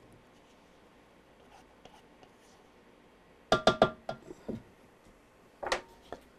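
Kitchenware clattering: a quick cluster of sharp knocks with a short glassy ring about three and a half seconds in, then another knock a couple of seconds later, as dishes or utensils strike a bowl.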